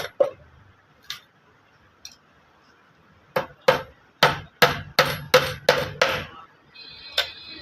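Hammer blows: a couple of single knocks, then a quick run of about nine strikes, roughly three a second, each with a short metallic ring, as in nailing a wooden door together.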